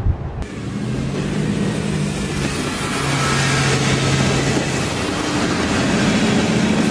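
Diesel passenger railcar passing close by: a steady low engine hum with a rush of wheel and air noise that swells as the cars go past.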